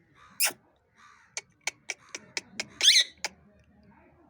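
Pet parrot giving a run of very short, sharp calls, about four a second, with one louder harsh squawk near the middle of the run. A single sharp call comes about half a second in.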